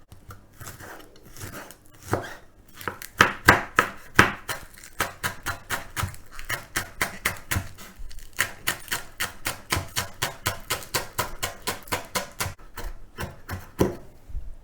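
A kitchen knife chopping a spring onion on a cutting board: a fast, even run of knife strikes, about four a second, that gets louder and steadier about three seconds in.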